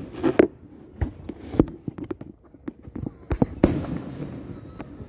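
Aerial fireworks going off in an irregular series of sharp bangs and cracks, some with a short rumbling echo after them.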